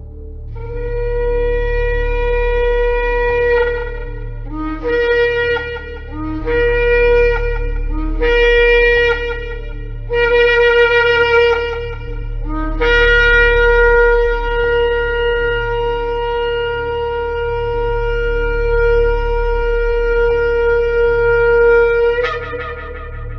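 Shofar (ram's horn) blowing: a long note, then four shorter blasts that each start on a lower note and break upward, then a very long held note of about nine seconds that ends with a brief rise in pitch. A steady low hum runs underneath.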